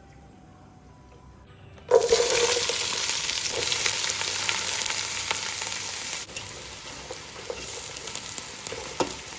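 Chopped onions dropped into hot oil in a pan, sizzling. The sizzle starts suddenly about two seconds in and eases a little past the middle.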